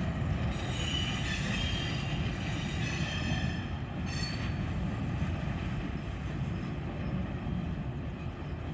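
Railroad cars rolling past with a steady rumble, their wheels squealing high on the rails for the first few seconds before the squeal dies away about four seconds in.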